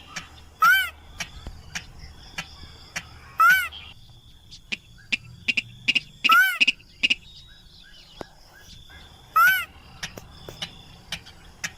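Rail (sintar, mandar padi) calling: four loud, short calls about three seconds apart, each a quick rising-and-falling note. Sharp clicks and steady high tones run underneath.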